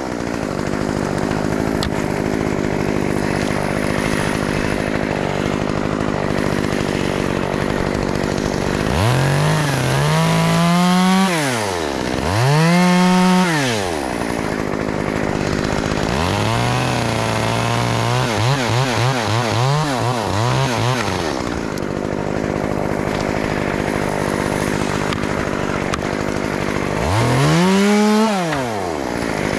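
Two-stroke chainsaw revved up and let back down several times: about nine seconds in, again around twelve seconds, and near the end. Around eighteen to twenty seconds it gives a run of quick throttle blips. Between the revs a steady engine hum runs on.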